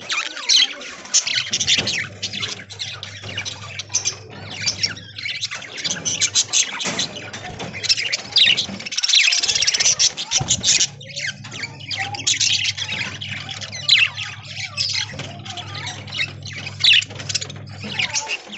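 A flock of budgerigars chirping, warbling and squawking without pause in dense overlapping chatter, over a steady low hum.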